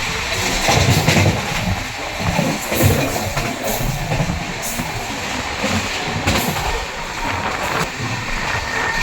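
Express passenger train running: a steady rumble and rattle of the coach, with occasional sharp clicks and knocks from the wheels on the track.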